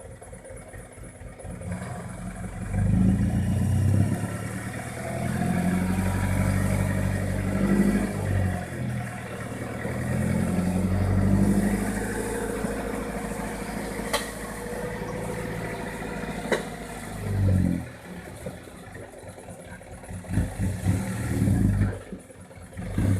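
Six-wheel dump truck's diesel engine revved up and held at high revs for long stretches, dipping and climbing again, then dropping back near idle; a short rev follows near the end. Two sharp clicks sound in the middle.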